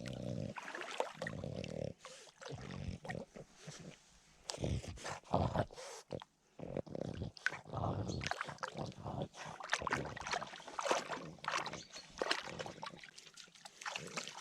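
A dog snuffling and panting close by, with irregular rustles and clicks.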